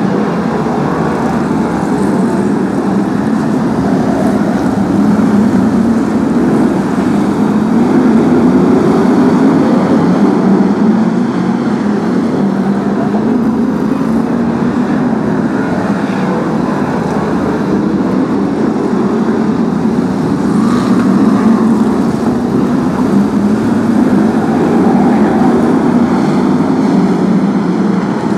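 BriSCA F1 stock cars racing as a pack, their big V8 engines running hard. The engine note rises and falls continuously as the cars accelerate and ease off.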